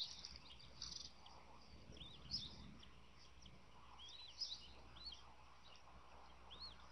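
Faint, high, short chirping bird calls, each a quick rising-and-falling note, come at irregular intervals, several times, over a low steady background hum.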